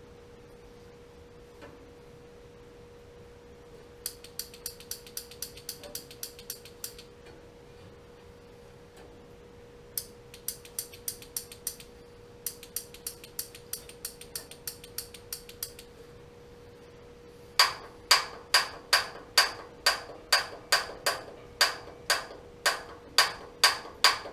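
Water heater pilot igniter clicking in quick runs, about four clicks a second, then a louder run of slower clicks, about two a second, as it sparks to light the pilot on a rebuilt pilot assembly. The pilot does not catch, which the technician puts down to a bad spark wire. A faint steady hum runs underneath.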